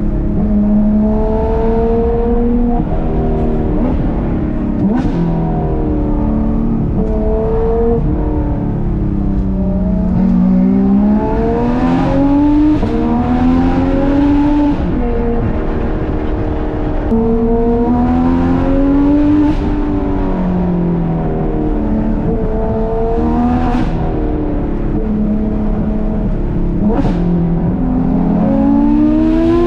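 Porsche 991.2 GT3 RS's naturally aspirated flat-six, with cat-delete pipe and street headers, pulling through the gears on a winding road. The pitch climbs under throttle, drops at each shift and falls away as the driver lifts off, with a few short sharp cracks in between.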